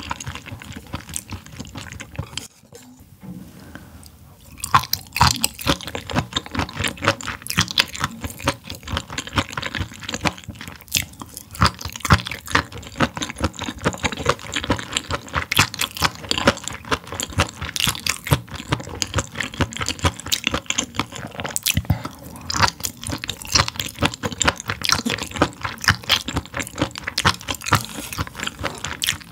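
Close-miked chewing of food in a person's mouth: a dense run of small irregular clicks, with a short lull about three seconds in.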